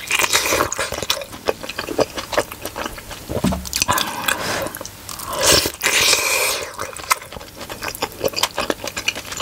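Close-miked biting and chewing of a steamed pork momo: wet mouth clicks and squishes, with two longer slurps of the hot dumpling, one at the start and one about halfway through.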